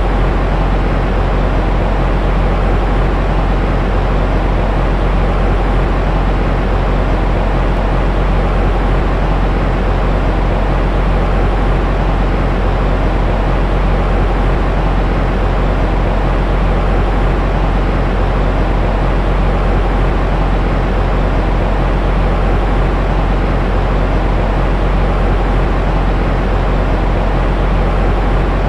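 Steady, unchanging sleep-aid white noise, deep-toned rather than hissy, with a faint low hum underneath.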